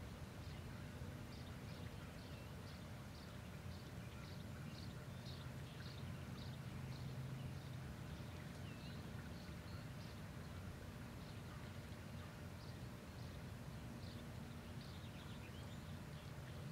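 Faint outdoor ambience: small birds chirping, short high calls repeating two or three times a second and pausing for a few seconds in the middle, over a low steady hum.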